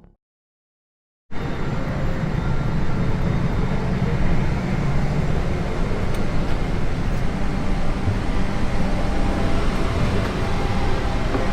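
Steady low vehicle rumble, starting abruptly after about a second of silence.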